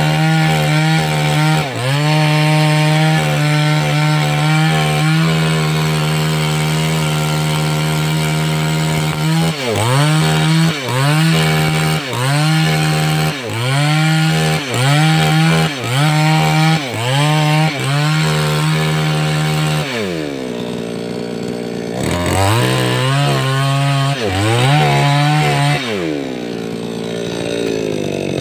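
A 588X two-stroke chainsaw runs at full throttle cutting wood, its engine note dipping and recovering again and again, about once a second in the middle. About two-thirds of the way in it drops to idle, revs up briefly a few times, then idles.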